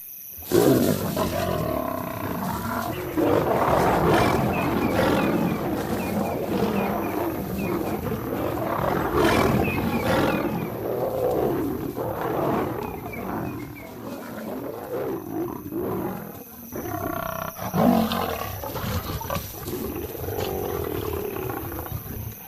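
Lions roaring in a fight between a male lion and lionesses, starting suddenly about half a second in and going on loudly throughout.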